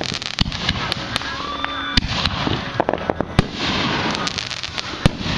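Aerial fireworks going off: a rapid run of sharp bangs and pops from bursting shells over a steady fizzing crackle of crackling stars.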